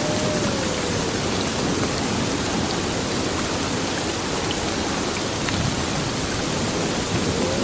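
Heavy rain pouring steadily on an old building, a dense even hiss with scattered drip ticks.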